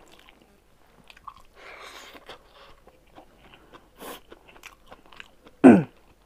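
Close-up chewing and mouth sounds of someone eating rice and smoked pork, full of small wet clicks and crunches, with fingers mixing rice on a steel plate. Near the end comes a short, louder mouth or throat sound that falls quickly in pitch.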